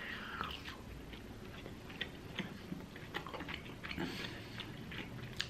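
A man chewing a mouthful of doner kebab meat: faint, irregular small clicks of the mouth.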